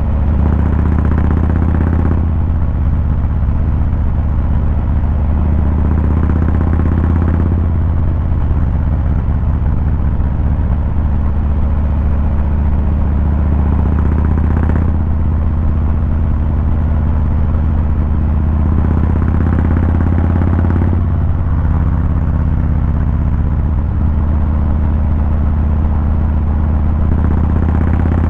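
2023 Harley-Davidson Fat Boy 114's Milwaukee-Eight 114 V-twin running under way, a steady low exhaust rumble, with several brief swells of higher-pitched noise over it.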